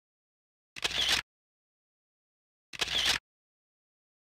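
Camera shutter click sound effect, heard twice about two seconds apart, with dead silence between.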